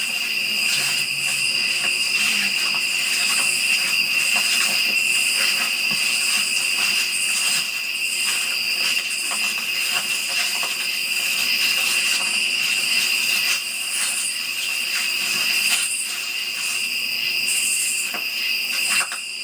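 Night insect chorus, crickets and similar insects trilling in a steady, unbroken high-pitched drone.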